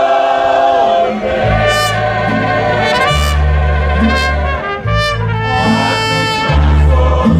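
Mariachi band playing an instrumental passage, the trumpets leading. A low bass line comes in about a second and a half in, its notes changing every second or so.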